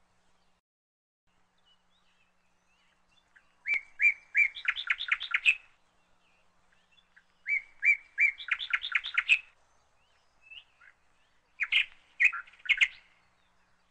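A bird singing: twice a phrase of a few clear notes running into a quick series of rising notes, then two shorter bursts of song near the end, with quiet between.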